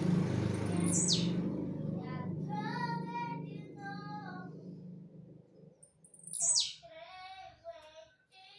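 A bird calling: two sharp, high whistles that drop steeply in pitch, each followed by warbling, voice-like calls. A steady low rumble underneath fades out about two-thirds of the way through.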